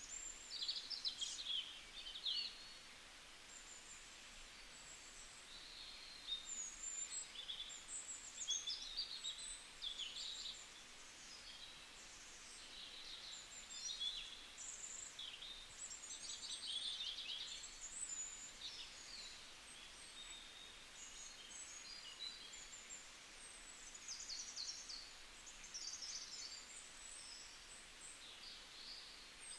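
Small birds chirping and twittering: many short, high calls in quick overlapping runs.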